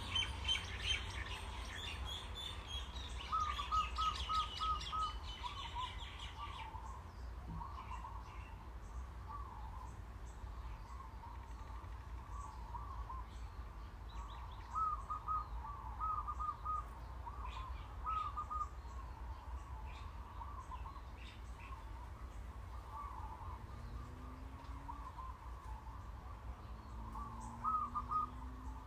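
Birds chirping: repeated series of short chirps throughout, with a faster, higher twittering over the first six seconds or so, over a steady low hum.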